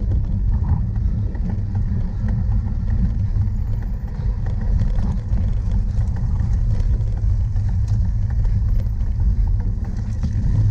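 Steady low rumble of wind buffeting the microphone of a camera carried on a cyclocross bike racing over rough ground, with faint rattles throughout and a sharp knock at the very end.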